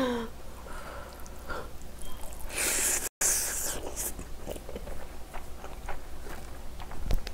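Close-miked chewing of a mouthful of braised pig's feet in a thin wrap: soft, wet mouth clicks, with a short, noisy, high-pitched burst about two and a half seconds in.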